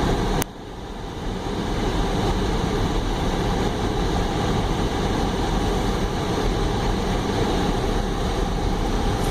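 Steady car road and engine noise heard from inside the cabin while driving. It drops abruptly about half a second in, then builds back to a steady level over the next second or two.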